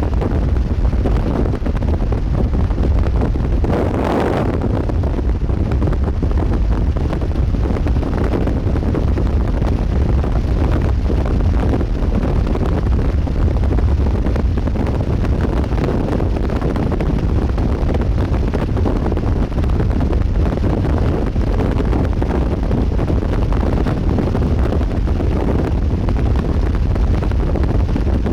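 Wind buffeting the microphone: a steady low rumble of storm wind, with one brief, harsher gust about four seconds in.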